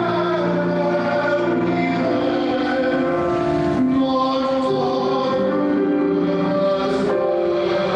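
Choir singing slow, held chords, the notes changing every second or two.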